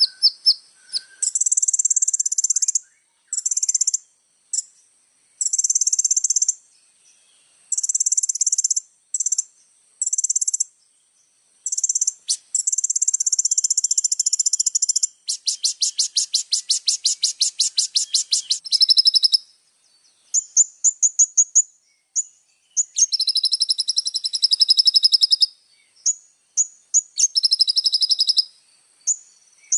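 Kolibri ninja sunbird singing loud, high-pitched chirping phrases separated by short pauses. In the middle comes a long, fast, rattling trill of about four seconds, followed by quicker strings of short notes.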